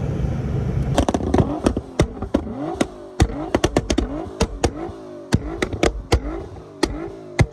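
Car engine running with a low rumble, then from about a second in a rapid run of throttle blips, each with a sharp exhaust bang and a short rising rev.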